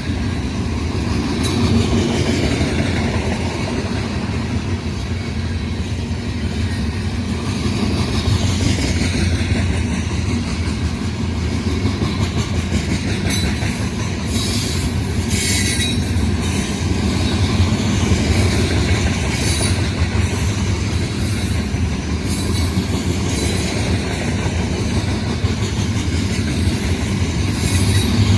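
Freight train rolling past at steady speed, its wheels clacking over the rail joints, with brief high-pitched wheel squeals around the middle and again near the end.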